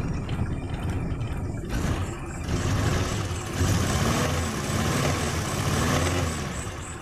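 Suzuki Carry 1.0's four-cylinder petrol engine idling roughly, a shaking misfire from dead and half-dead spark plugs on cylinders 1 and 2. A rushing hiss joins the engine about two and a half seconds in.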